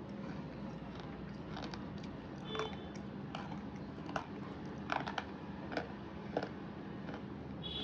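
Brittle slate-pencil pieces being crunched: irregular sharp cracks and snaps, about ten in all and bunched between about four and seven seconds in, over a steady low hum.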